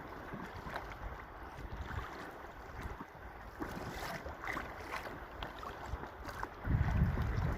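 Water splashing and lapping around a kayak in choppy waves, with light irregular splashes. Near the end, wind starts buffeting the microphone with a loud low rumble.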